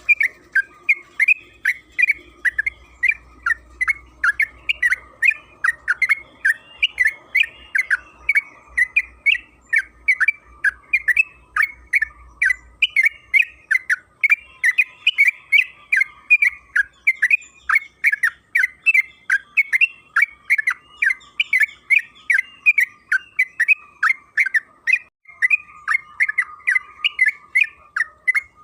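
Yellow-vented bulbul (trucukan) singing a long, unbroken run of quick, sharp chattering notes, several a second.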